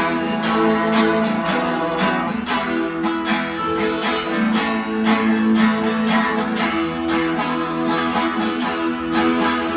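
Instrumental break of a 1960s-style pop song: strummed guitar chords on a steady beat, with sustained chord tones underneath.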